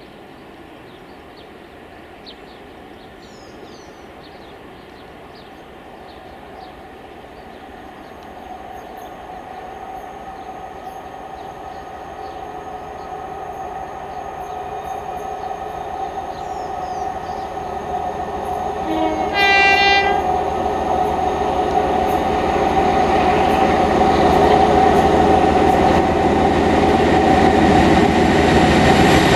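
Train approaching, growing steadily louder, with a short horn blast about two-thirds of the way through.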